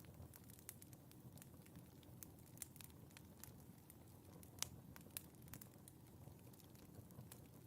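Fire in a fireplace crackling faintly: scattered, irregular sharp pops over a low steady rush of the flames, with one louder pop a little past halfway.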